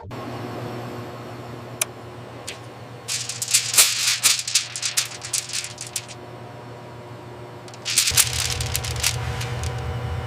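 Two stretches of rapid rattling clicks, about three seconds in and again near the end, over a steady low hum and background music.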